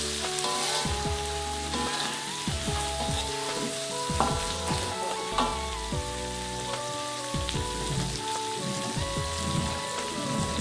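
Chopped chillies and spices sizzling as they fry in oil in an aluminium wok, with a metal spatula scraping and knocking against the pan in the first half; they are being sautéed until fragrant and cooked.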